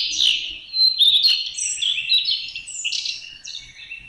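Birds chirping, many short overlapping calls and whistled notes, growing fainter toward the end.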